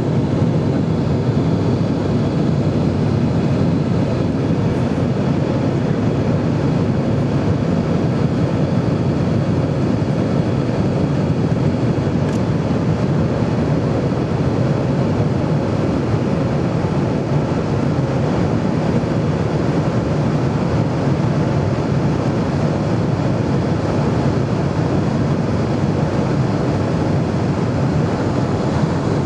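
Airbus A320 jet engines and airflow in a steady, even rumble with a faint hum, unchanging throughout.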